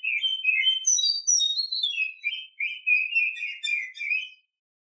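Female Oriental magpie-robin (kacer) singing a fast, varied string of chirps and whistled notes, higher around a second in, then lower and choppier, breaking off shortly before the end. This is the breeding-condition female call used as a lure to excite male magpie-robins.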